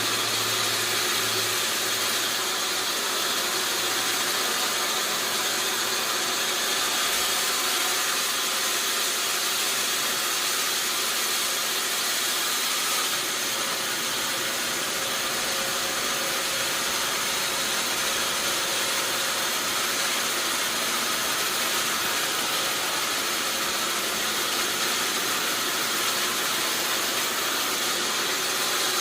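Sawmill machinery running with a steady, even noise that does not change.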